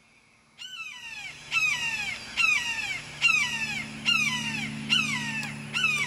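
Immature red-shouldered hawk calling a series of loud, downward-sliding screams, about seven in a row, each a little under a second apart. The calls begin about half a second in.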